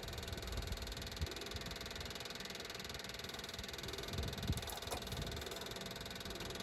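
Steady low hum of a running motor, with a couple of light knocks.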